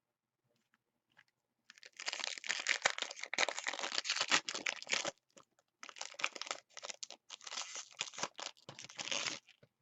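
A foil trading card pack being torn open and its wrapper crinkled by hand, a dense crackling in two stretches of about three and a half seconds each, with a short pause between them.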